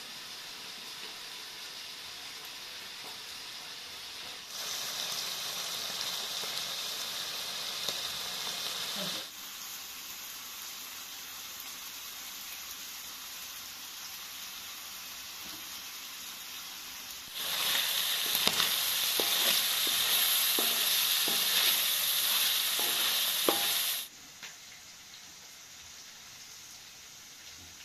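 Chicken hearts and vegetables sizzling as they fry in a pan, stirred with a spoon and a wooden spatula that scrape and clack against it. The sizzle swells louder twice and then drops back suddenly.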